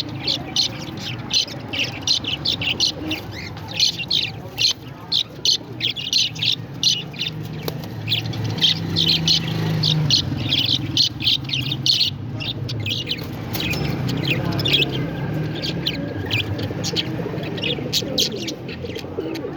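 Parrots chirping continuously in quick short high calls, several a second, over a low steady hum.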